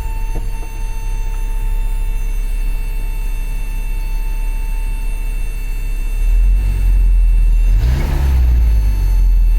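Isuzu truck engine running at idle, growing louder about six seconds in, then revved once briefly near the end.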